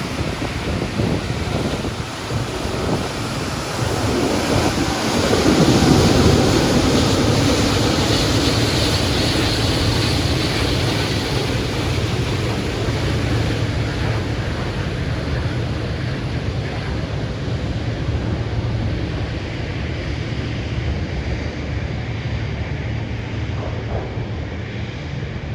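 Boeing 777X's GE9X jet engines running at taxi power: a steady rumble and rush that swells to its loudest about six seconds in, with a falling sweep in pitch, then eases slowly. Wind buffets the microphone throughout.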